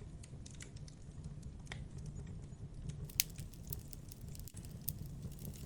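Wood campfire crackling: scattered sharp pops and snaps, a louder pop about three seconds in, over a low steady rumble.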